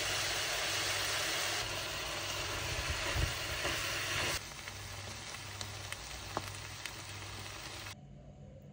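Chicken and vegetable stir-fry sizzling in a hot wok while peanut sauce is poured in and tossed with a silicone spatula, with a few light scrapes and a steady low hum underneath. The sizzle steps down twice and cuts off near the end.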